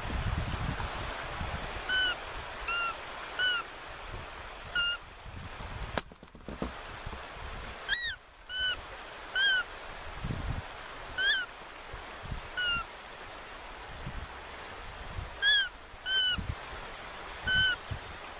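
A bird calling over and over: about a dozen short, clear notes, single or in pairs, spaced irregularly, with a low rumble of wind or handling noise underneath.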